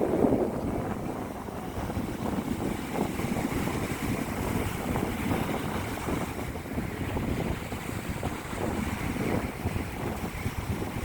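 Ocean surf breaking and washing up on a beach, a steady churning wash with a slightly bigger surge right at the start, and wind buffeting the microphone.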